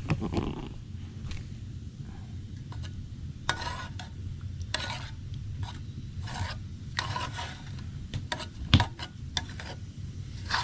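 A spoon stirring and scraping chili in a cooking pot, in a string of separate scrapes with a sharp knock against the pot about nine seconds in.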